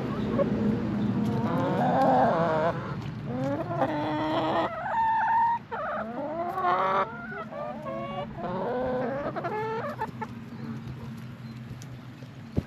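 Chickens clucking and calling in a run of short pitched calls, over a steady low hum.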